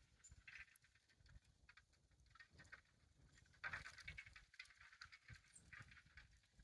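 Ice tinkling like wind chimes: faint light clinks and taps with a few brief high rings, and a louder crunching scrape about four seconds in.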